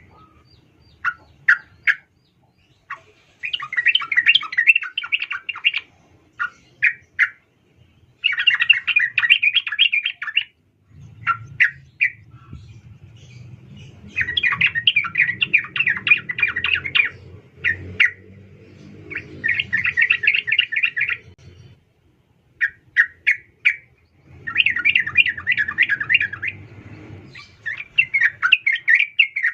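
Yellow-vented bulbul (trucukan) calling: bursts of rapid chattering notes lasting two to three seconds, repeated about every five seconds, with short single call notes between. These are the calls of a female, used as a lure to get a male singing. A low rumble sits underneath in the middle and again near the end.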